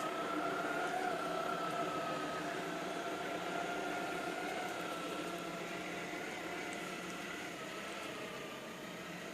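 Yujin Robot iClebo Arte robot vacuum cleaner running while vacuuming a sofa: a steady whir of the suction fan with a humming tone that wavers slightly in pitch.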